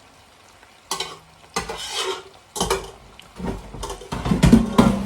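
Spoon stirring and scraping in a cooking pot of gizzard stew, with food sizzling. The strokes are irregular and start about a second in, growing denser and louder in the second half.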